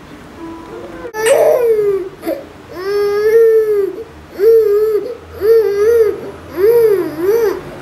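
A baby crying out in a series of about six loud, drawn-out wails, each rising and falling in pitch, with short breaths between them.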